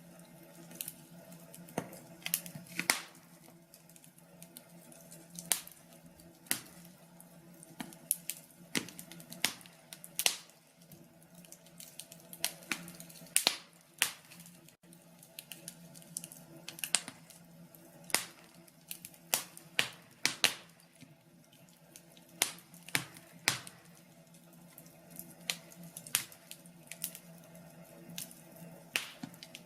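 Wood fire in a fireplace crackling, with irregular sharp pops and snaps, some louder than others, over a faint steady low hum.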